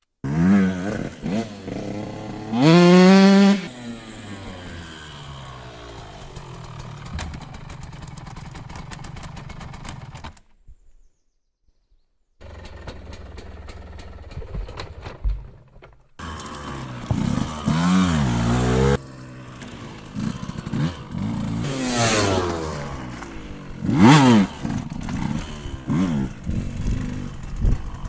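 KTM SX 125 two-stroke motocross bike engine revving up and down again and again as it is ridden, with sharp loud revs. Near the middle it drops out briefly to near silence before picking up again.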